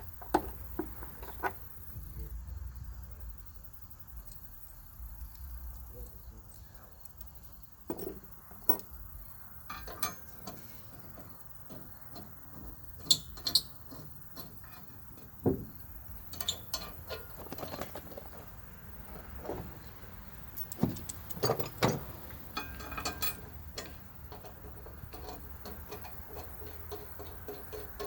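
Grade 8 steel bolts and lock washers clinking and tapping against a steel mounting plate as they are set and threaded in finger tight by hand: irregular metallic clicks with a few sharper knocks.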